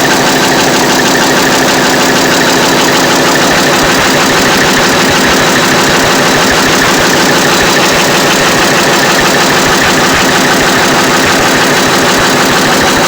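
Four-stroke diesel engine running steadily at idle, with a fast, even clatter from its valve gear: rocker arms working the intake and exhaust valves.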